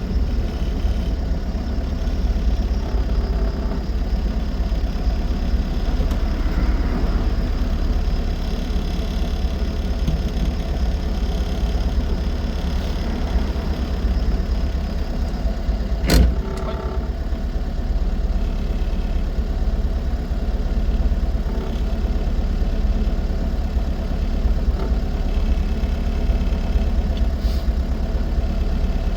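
Austin 7 Ruby's small four-cylinder side-valve engine running as the car drives along, with a heavy low rumble of the car under way. A single sharp knock or bump comes about sixteen seconds in.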